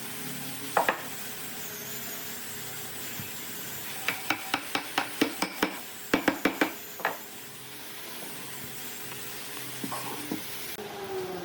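A run of sharp taps or knocks, about a dozen in quick succession over three seconds, with a few more before and after, over a steady hiss.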